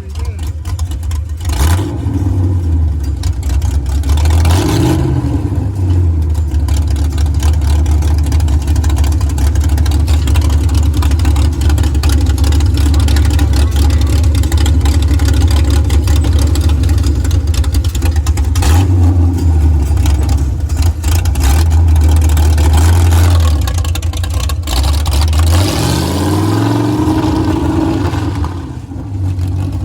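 A 650-horsepower monster truck's engine running loud and heavy under the ride, revving up about four seconds in and again near the end.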